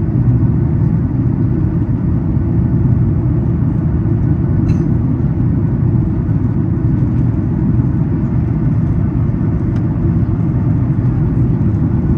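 Steady low rumble of cabin noise inside a Boeing 737 MAX 8 on its approach descent, from its CFM LEAP-1B engines and the airflow over the fuselage.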